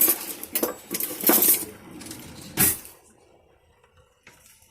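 A utensil stirring rice in a pot of boiling water, clinking and scraping against the pot in several strokes over about three seconds before the stirring stops.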